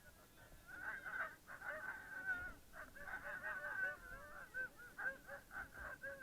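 Many short, high calls overlapping, each rising and falling in pitch, from several animals at once.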